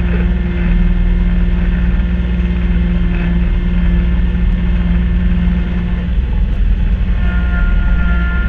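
Kubota B2650 compact tractor's three-cylinder diesel engine running steadily while driving a front-mounted Kubota B2782 snowblower. A higher whine joins the drone near the end.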